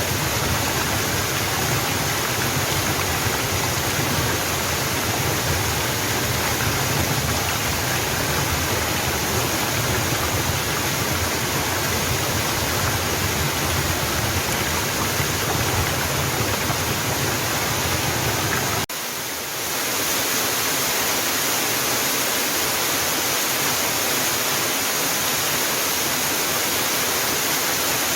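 Steady rushing of a mountain waterfall, falling water splashing without a break. About two-thirds of the way through the sound cuts abruptly, dips for a moment and comes back with less deep rumble.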